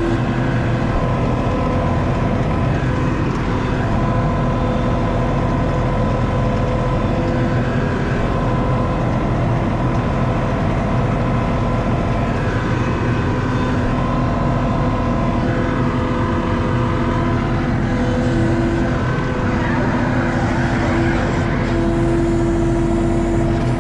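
Skid steer's engine running steadily under working load, its pitch shifting slightly now and then.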